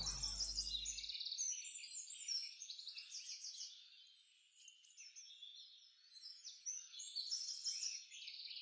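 Songbirds chirping and trilling, several calls overlapping, fairly faint; the last of the music fades out in the first second, and the birdsong thins out about halfway through before picking up again.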